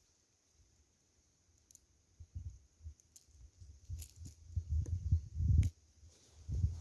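Fishing tackle being handled: scattered light metallic clicks and clinks with low thumps, the loudest thumps late on, over a faint steady high hiss.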